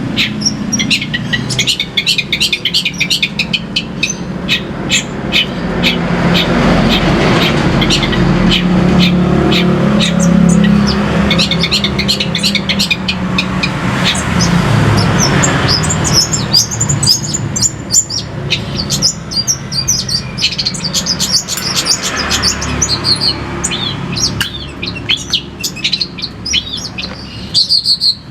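Songbird singing fast, varied runs of high chirps and trills, with a low rumble in the background through the middle.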